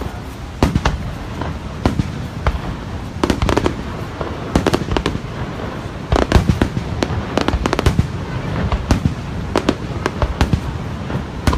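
Fireworks bursting overhead: a long irregular run of sharp bangs, some in quick clusters of two or three, over a steady low rumble.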